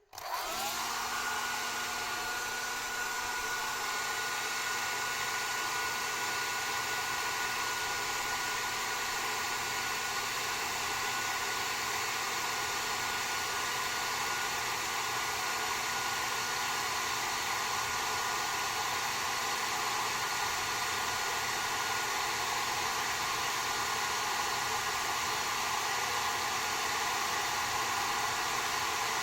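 Hand-held hair dryer switched on, its motor spinning up with a briefly rising whine, then blowing steadily.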